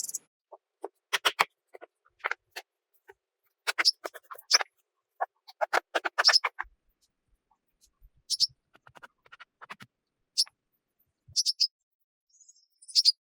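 Objects being handled close to the microphone: irregular short clicks, taps and rustles in small clusters, with quiet gaps between.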